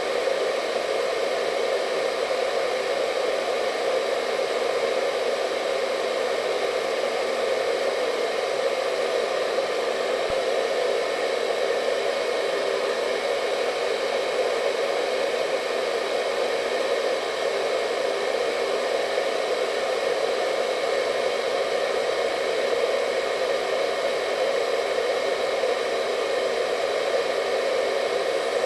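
Hair dryer running steadily: a continuous airy rush strongest in the mid range, with faint steady whine tones above it, and no change in speed or level.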